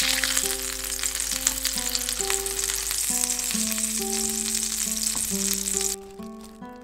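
Food sizzling in oil in a frying pan, with small pops, over light background music. The sizzling cuts off suddenly about six seconds in, leaving only the music.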